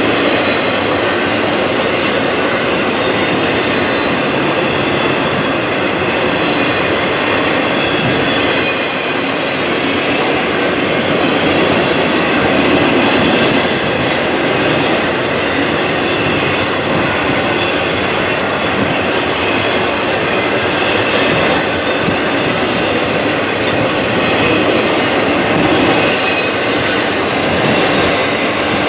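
Freight train cars rolling past on the rails, a steady loud clatter of wheels on track with a faint high wheel squeal running through it.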